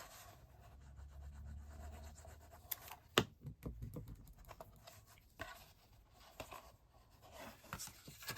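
Light scratching and rubbing of a glue bottle's nozzle and hands on cardstock tabs while glue is spread on them, with a sharp click about three seconds in.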